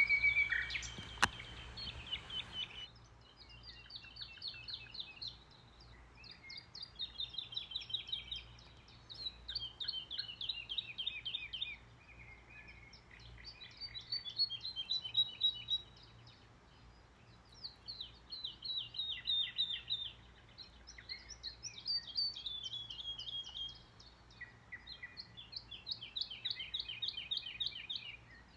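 Small aviary birds chirping: rapid runs of high chirps come in repeated bouts of a few seconds each. A sharp click is heard about a second in.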